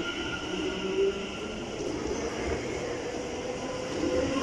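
Electric passenger train at a station platform, running with a steady hum of several fixed tones over a low rumble, with a brief louder moment about a second in.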